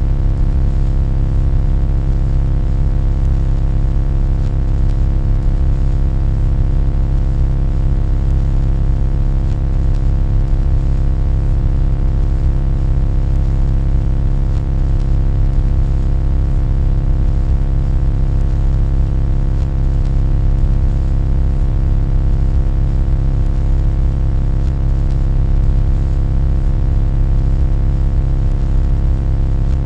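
A loud, steady low hum with many overtones, unchanging throughout.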